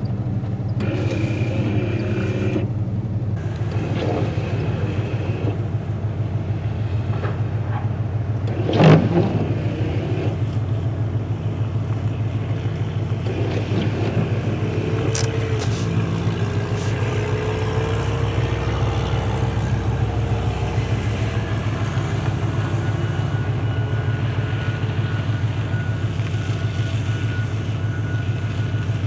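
Steady low drone of a car's engine and road noise heard from inside a moving car, with a short loud thump about nine seconds in.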